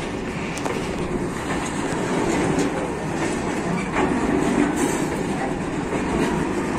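Empty freight flat wagons rolling slowly past on the rails: a steady rumble of steel wheels on track, with a few clacks at irregular moments. The train is being taken slowly over newly relaid track where loose rails are still being tightened and the ballast set.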